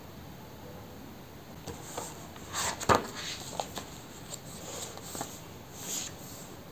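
Small objects being handled in a quiet room: a few soft rustles and clicks, with one sharp knock about three seconds in.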